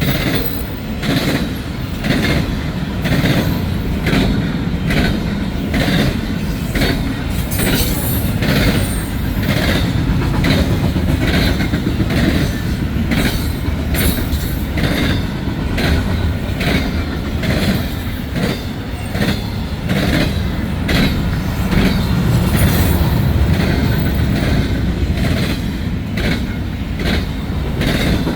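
Intermodal freight train cars rolling past: a steady low rumble with rhythmic wheel clicks, about two a second.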